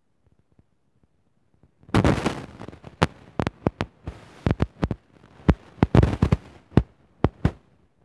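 An irregular series of sharp knocks and bangs, starting about two seconds in, some in quick clusters and some single.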